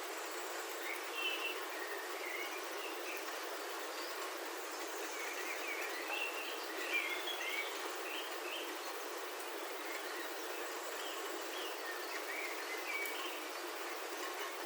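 Steady rain on a roof heard from inside, a continuous even hiss. Birds chirp outside in short scattered calls, busiest around the middle.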